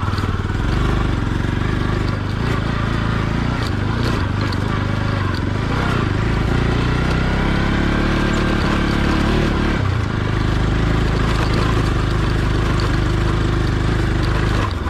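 Motorcycle engine running under way. Its pitch climbs from about six seconds in and drops back at about ten seconds.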